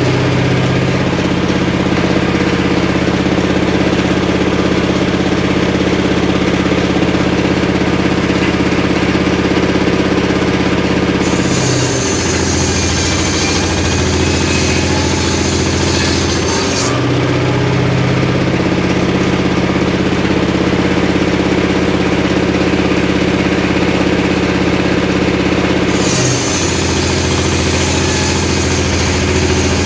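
Engine-driven homemade circular saw running steadily. About eleven seconds in, the blade cuts into a short piece of wood, adding a high hissing rasp while the engine note drops under the load; it recovers when the cut ends about six seconds later. A second cut starts near the end.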